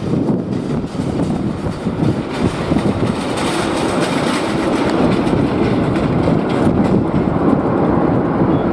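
Jet airliner engine noise, a steady rumble that grows fuller and hissier about three seconds in, mixed with strong wind buffeting the microphone.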